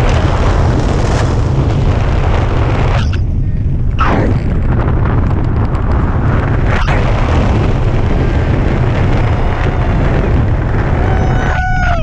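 Wind buffeting the microphone of a hang glider in flight, a loud steady rumble that eases briefly about three seconds in.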